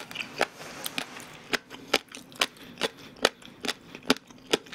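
Close-miked chewing of crunchy food, a crisp crunch about twice a second.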